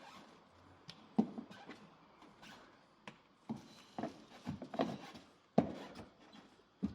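Rubber toilet plunger pulling on a dented car body panel: several dull pops and thumps at irregular intervals as the cup is pushed on and pulls off the metal without lifting the dent.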